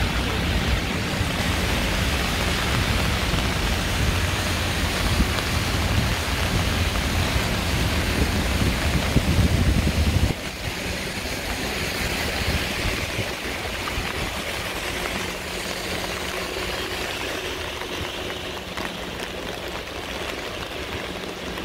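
Heavy rain falling on a city street, a steady hiss. Under it a low rumble runs for about the first half and stops abruptly, after which the rain sounds a little quieter.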